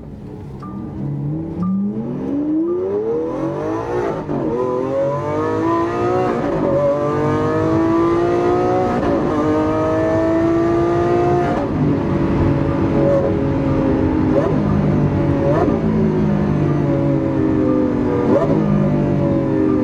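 Lamborghini Aventador's V12 under hard acceleration through a Capristo aftermarket exhaust. The engine note climbs steeply, then drops briefly and climbs again about four times in quick succession as it shifts up through the gears, before settling into a steadier, high-revving cruise.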